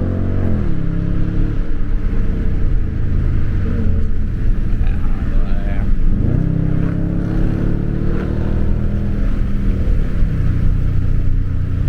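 Car engine running hard under throttle. Its pitch drops sharply about half a second in, holds as a steady drone, then dips and climbs again around six seconds in, as the car goes through gear changes.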